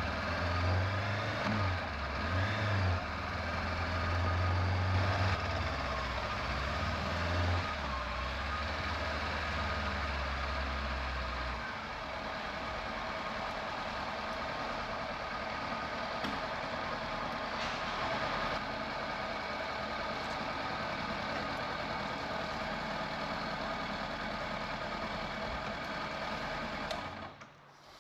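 Motorcycle engine running with a low rumble that drops away about twelve seconds in, leaving a steady, thinner mechanical noise that fades out near the end.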